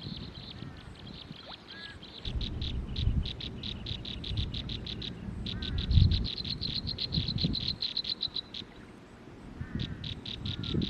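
An animal calling in bouts of rapid, high-pitched clicking pulses, several a second, in three runs of a few seconds each. Under it runs a low rumble with one loud thump about six seconds in, and a few faint chirps.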